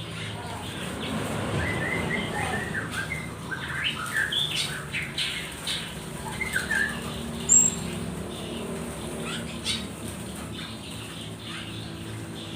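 Small caged birds chirping in short, scattered calls, with one brief high whistle about two-thirds of the way through.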